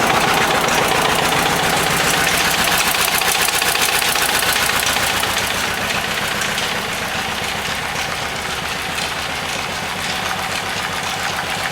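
Eicher diesel engine running steadily with a fast, even knocking beat as it belt-drives a monoblock water pump through a small pulley. The engine gets a little quieter about halfway through.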